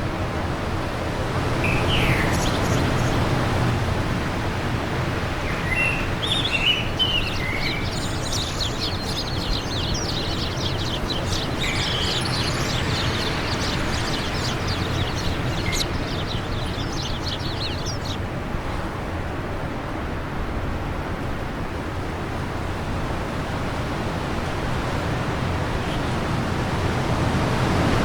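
Steady wind noise with small birds chirping and trilling over it; the birdsong stops about two-thirds of the way through, leaving the wind alone.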